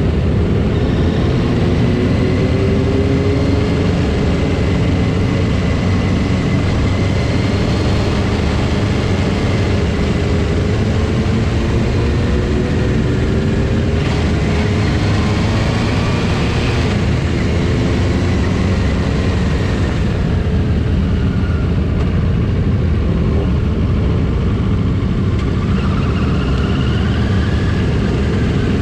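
Motorcycle engines running steadily, with slow rises and falls in pitch over a constant low rumble.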